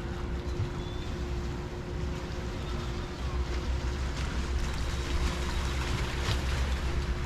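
Harbor shore ambience: water washing and lapping with a steady low rumble, a faint constant hum under it and a few brief splashes or crackles.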